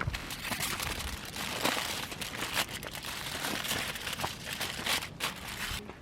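Paper or plastic crinkling and rustling as it is handled, in a dense run of crackles that stops shortly before the end.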